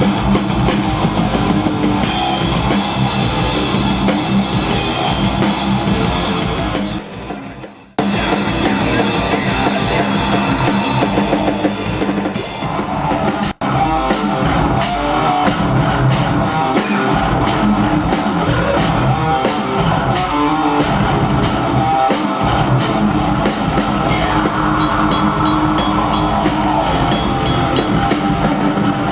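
Live rock band playing loud and heavy, with drum kit and electric guitar, in raw stage sound. The music fades out about seven seconds in and jumps back in suddenly a second later, then drops out for an instant midway.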